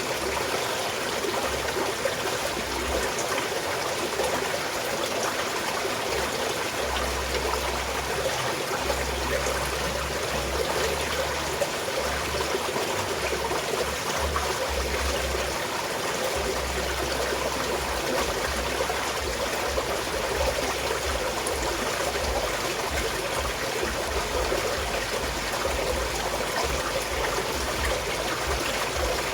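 Small mountain stream of flowing water trickling and babbling steadily.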